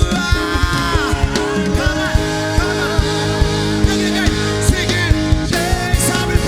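Live church worship band playing a song, with a steady drum beat under sustained keyboard and guitar chords and a wavering sung melody.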